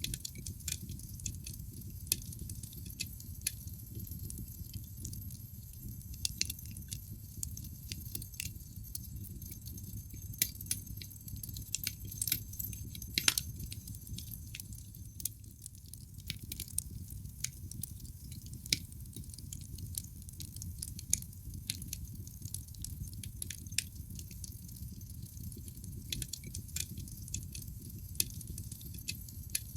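Wood fire burning in a fireplace: irregular sharp crackles and pops from the burning logs over a low steady rush of the flames, with one louder pop about halfway through.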